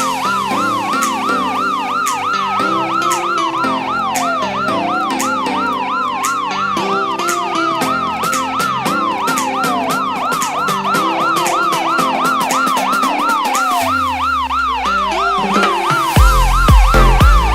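Siren with a slow rising-and-falling wail and a rapid warble on top, over electronic music; a heavy bass beat comes in near the end.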